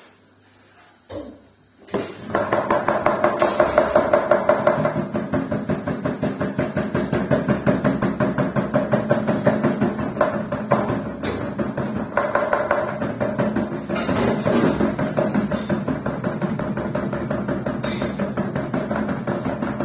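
Washing machine spinning with a fast, steady knocking pulse of several beats a second over a running hum, starting about two seconds in, with a few sharper bangs: the sign of a spin-cycle fault.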